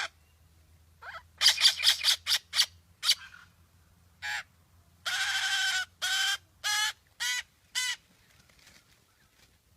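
A bird calling loudly: a quick run of about six calls, then a pause, one call, a longer drawn-out call, and four shorter calls about half a second apart.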